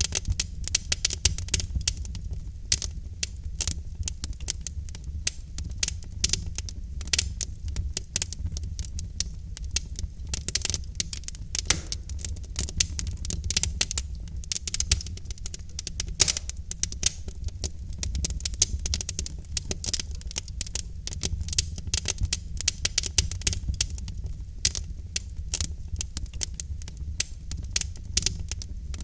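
Wood logs burning in a fireplace, crackling with many rapid irregular pops over a steady low rumble.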